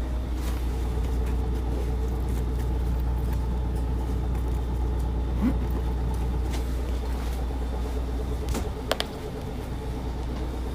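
Diesel route bus engine running, heard from inside the cabin as a steady low rumble. Near the end the deep rumble drops away and there is a sharp click.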